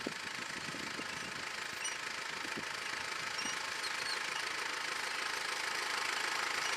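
An engine running steadily, slowly growing louder.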